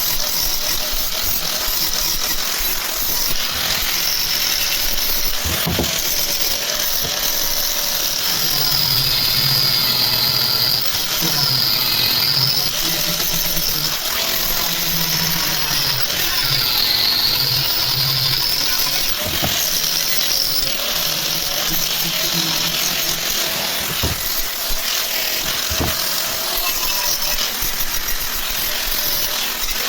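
A power tool running steadily, with a high whine that dips in pitch and recovers a few times, as when it is pressed into work.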